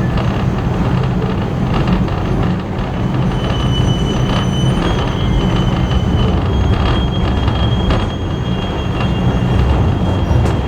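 Passenger carriage running along the track, heard from aboard: a steady low rumble from the wheels on the rails, with thin high wheel squeal from about three seconds in and a few faint clicks over rail joints.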